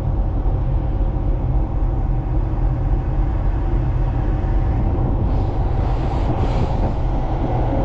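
Ship's engine running at low power, a steady heavy low rumble with a faint steady hum over it. A brief rush of hiss rises and fades about five to seven seconds in.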